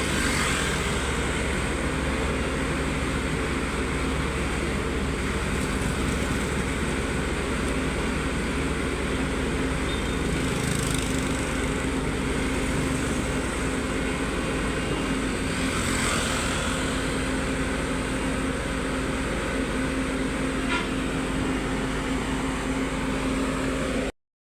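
Heavy-equipment engine running steadily at an even speed; the sound cuts off abruptly near the end.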